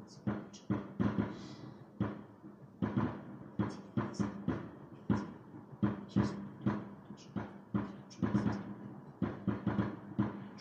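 Aerial fireworks bursting in quick succession: a string of sharp bangs, about two a second and unevenly spaced.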